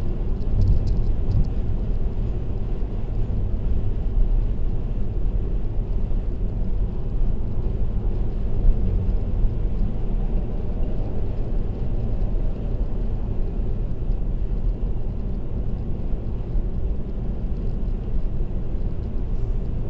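Steady road and tyre noise of a car cruising on an expressway, a low even rumble heard from inside the cabin.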